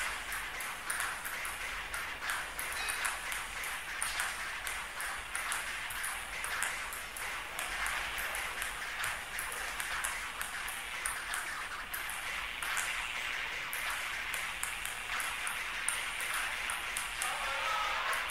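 Ping-pong balls clicking rapidly in a fast table-tennis rally, struck back and forth and bouncing on the table, over a steady background hiss.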